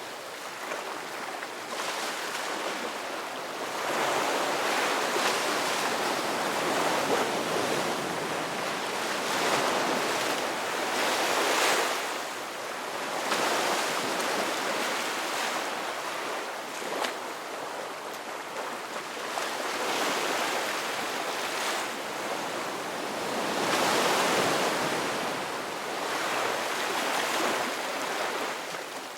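Ocean waves breaking and washing on the shore, the surf swelling and ebbing every few seconds in a steady rush.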